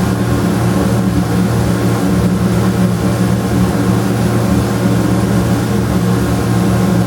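A running motor's steady low hum, even and unchanging throughout.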